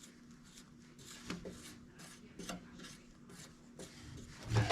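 Short scraping strokes on sheet metal, two or three a second, with a louder knock near the end.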